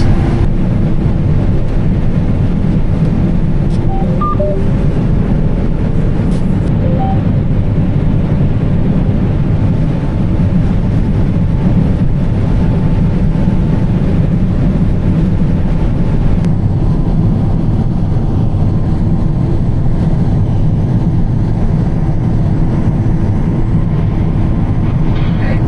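John Deere combine running steadily while harvesting soybeans: a constant low machine drone with a steady hum on top.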